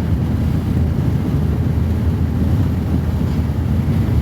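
Steady low rumbling noise, unchanging throughout.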